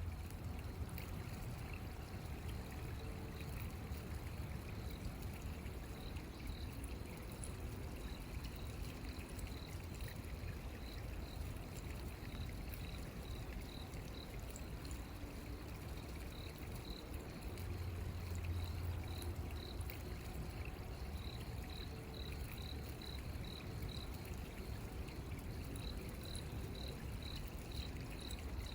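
A stream or river flowing with a steady rush of water. From about six seconds in, a high chirp repeats two or three times a second.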